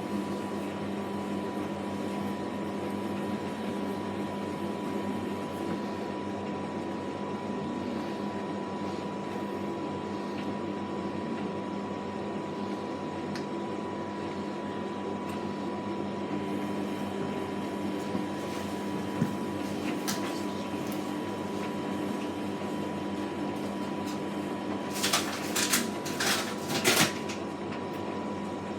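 Samsung WW80J5555FWEU washing machine running through a wash with a steady hum and a thin, high steady whine. A handful of sharp knocks come close together near the end.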